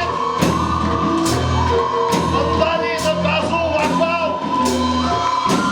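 Live band playing: a drum kit beating about once a second over bass guitar and a held keyboard tone, with a wavering vocal-like melody line on top.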